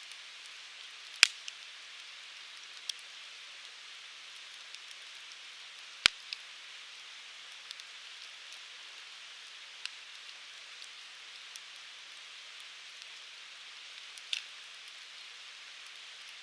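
Firewood burning in a Uniflame Fire Grill fire pit: a steady hiss with scattered sharp crackles, the loudest pops about a second in and about six seconds in.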